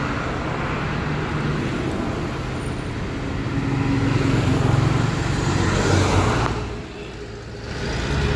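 Road traffic with a car engine running. The traffic noise swells about four to six seconds in, drops briefly about seven seconds in, then comes back.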